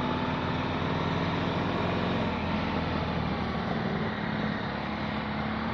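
Motorcycle engine running at a steady cruising pitch under way, with road and wind noise; the engine note eases slightly a little past two seconds in.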